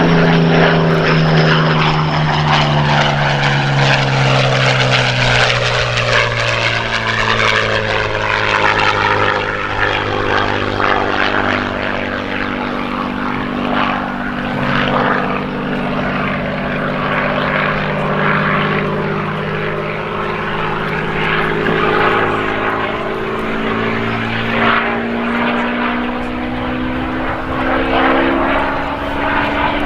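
Several Spitfire and Hurricane fighters flying past, their V12 piston engines droning. The engine note falls in pitch during the first ten seconds or so as aircraft pass, and rises again in the second half as more approach.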